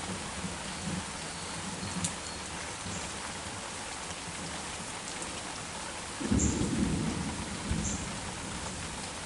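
Heavy rain falling steadily, with a short low rumble of thunder about six seconds in, the loudest thing heard, and a smaller rumble just after.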